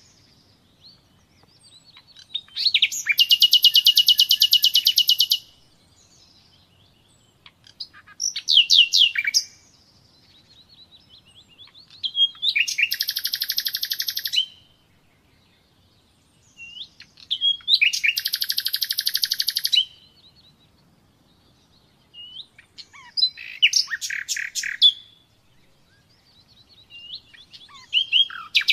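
Common nightingale singing: about six separate phrases of a few seconds each, mostly fast repeated trills with some whistled notes, with pauses of two to three seconds between them.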